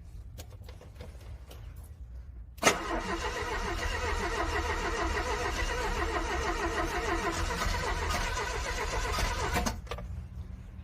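Cold car engine cranking on its starter without catching. A sharp click about two and a half seconds in starts about seven seconds of steady cranking, which stops abruptly near the end.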